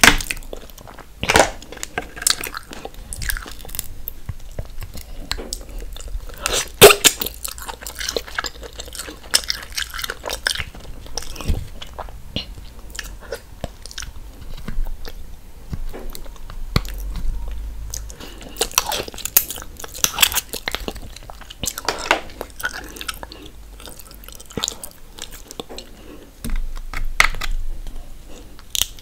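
Close-miked chewing and mouth sounds of someone eating mussels, with irregular sharp clicks throughout and a louder one about seven seconds in.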